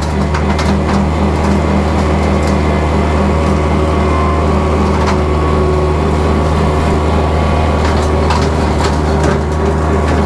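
Kubota tractor's diesel engine running steadily under load while its rotary cutter chews through thick brush, with sharp cracks of breaking branches now and then.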